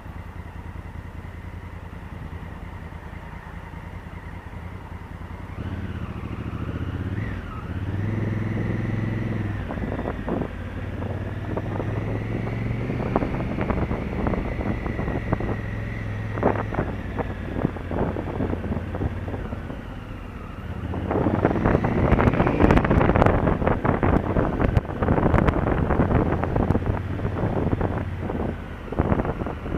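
Honda Africa Twin CRF1000L's parallel-twin engine running steadily, then growing louder about six seconds in as the bike gets under way, its pitch changing with the throttle. From about twenty seconds in, wind rushing over the camera microphone at speed takes over, with rattling and buffeting.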